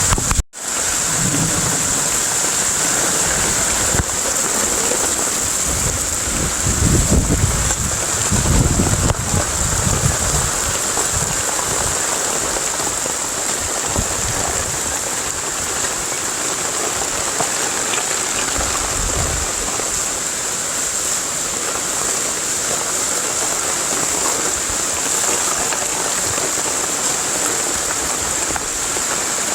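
Heavy rain falling steadily, with a few low rumbles swelling and fading in the first ten seconds and once more near the middle. The sound cuts out for an instant near the start.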